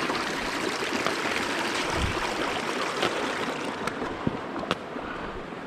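Shallow river water rushing steadily, with a few sharp clicks and knocks in the second half.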